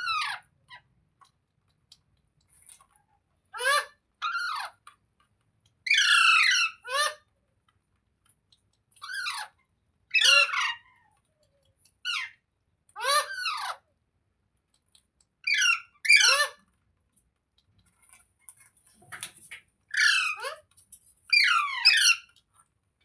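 Pet parrot giving repeated harsh squawking calls, each short and falling in pitch, often in pairs, a second or two apart.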